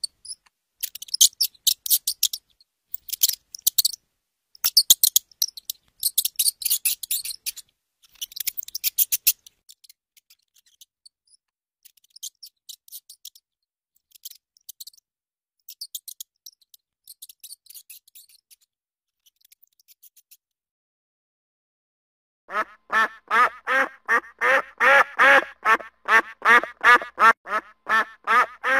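A rat gnawing and crunching dry food in sharp, crackly bursts, which thin out to faint ticks after about ten seconds. After a short pause, about three-quarters of the way through, waterfowl start calling: a rapid run of nasal quacking calls, several a second.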